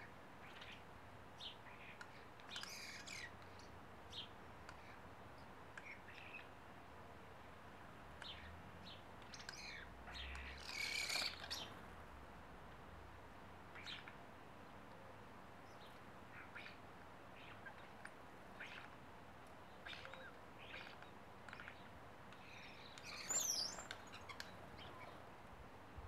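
Birds chirping faintly: short calls scattered throughout, with louder flurries of calls about three seconds, eleven seconds and twenty-three seconds in, the last including quick whistled glides up and down.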